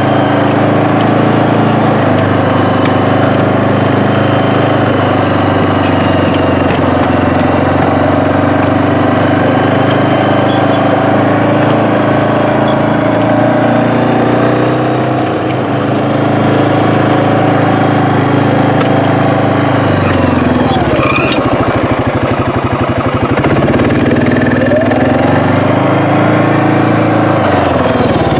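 An engine running close by at a steady speed; twice in the last third its speed sags and then picks back up.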